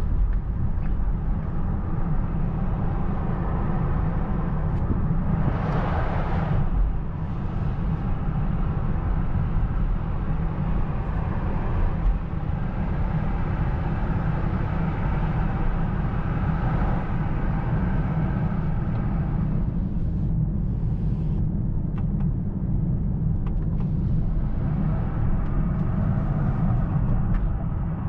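Cabin sound of a 2024 Mercedes-AMG S63 E Performance driving at a steady pace: a continuous low twin-turbo V8 engine and exhaust rumble mixed with tyre and road noise. A brief rush of noise rises and fades about six seconds in.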